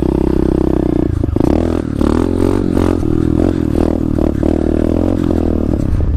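SSR 125 pit bike's single-cylinder four-stroke engine running while riding. Its note rises and dips with the throttle and briefly breaks off a few times as the throttle is rolled off or gears are changed.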